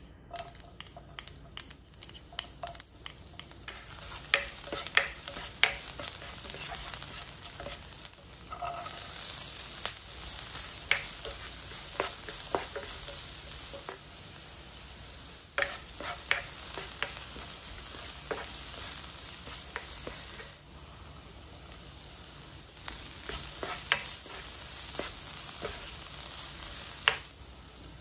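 Chopped onions and green chillies sizzling in hot oil in a nonstick wok while they are stirred, with many short clicks and taps of the utensil against the pan. The sizzle grows louder about a third of the way through and eases about two-thirds of the way through.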